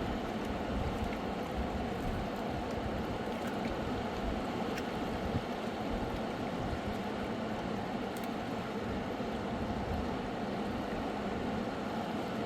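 Fast mountain river rushing steadily, a continuous water noise with a few faint clicks.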